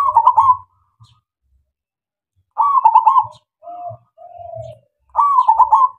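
Zebra dove (perkutut) cooing its song: three loud, quick phrases a little over two seconds apart, with softer, lower coos between the second and third.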